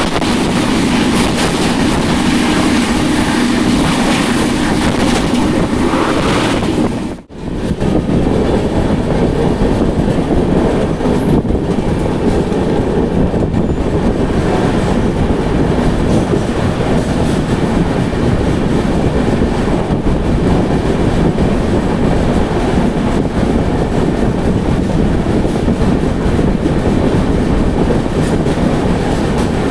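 Duronto Express train running at speed: a steady rumble and rattle of wheels on the track. The sound drops out sharply for a moment about seven seconds in.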